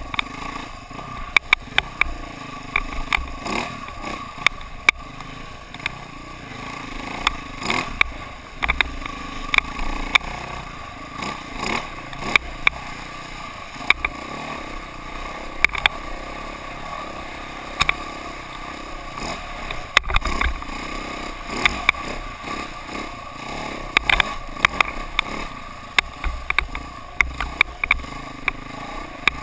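KTM dirt bike engine running while riding, with frequent sharp knocks and rattles throughout.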